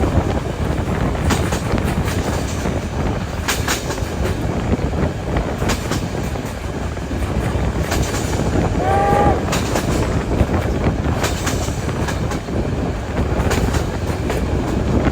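Steam train running along the line: a steady rumble with irregular clicks of the wheels over rail joints, and one short pitched call about nine seconds in.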